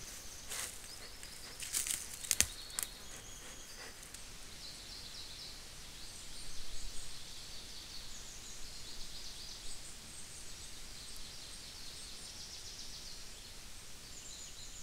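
Small birds chirping and trilling in a forest, with a few sharp cracks and knocks in the first three seconds, the loudest about two and a half seconds in.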